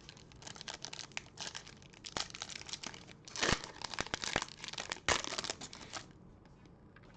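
A 2021 Bowman baseball card pack wrapper crinkling and tearing as it is opened by hand: a dense run of crackles that stops about a second before the end.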